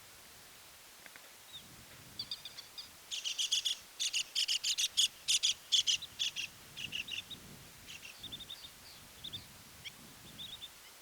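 Birds calling: a rapid run of short, sharp, high chirps, loudest from about three to seven seconds in, with scattered softer chirps before and after.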